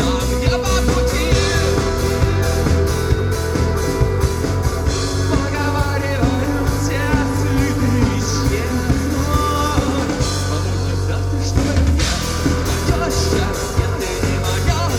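Rock band playing live, with drums keeping a steady beat under bass and other instruments.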